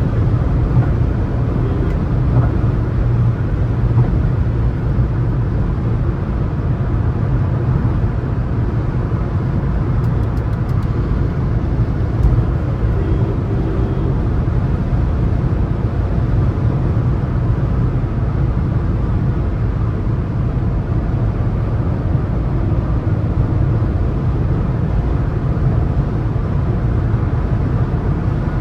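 Steady engine and road noise of a Suzuki S-Cross 1.3 DDiS diesel cruising on the highway: an even low rumble with tyre hiss, unchanging throughout.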